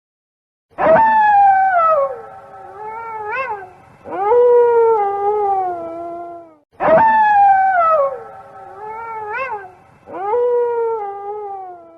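Wolf howling: a long howl that starts suddenly and falls in pitch, a short rising yelp, then a second, lower howl that dips and trails off. The same series of calls comes round a second time a little past the middle.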